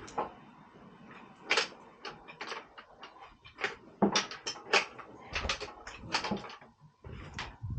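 Irregular clicks and knocks of tools and parts being handled during a mower oil change, a few a second, some sharper than others.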